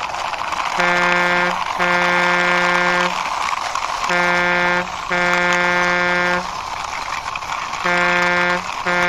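A truck horn honking in pairs, a short blast followed by a longer one, three times over, on one steady pitch. Between and under the blasts there is a constant noisy hiss.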